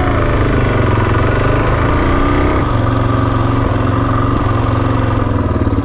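Motorcycle engine running under way, its pitch rising and falling as it pulls through the gears, with a change in the engine note about two and a half seconds in.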